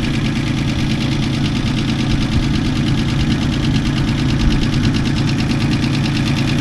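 1989 Ford Ranger pickup engine idling steadily, running after the truck sat for several months.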